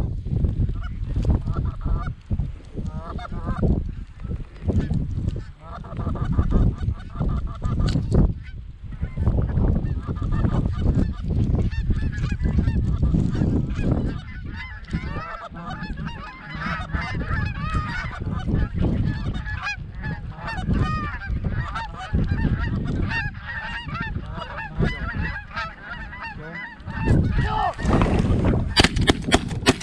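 Flock of geese honking continuously, many overlapping calls, over heavy wind rumble on the microphone. Shotgun blasts start in quick succession right at the end.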